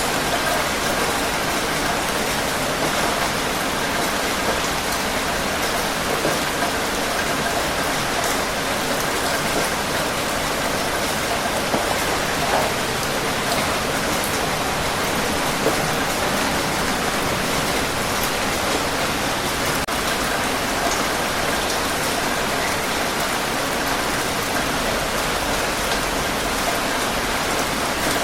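Steady rain falling and pattering on a surface, an even hiss with scattered small drop ticks and a few slightly louder drops.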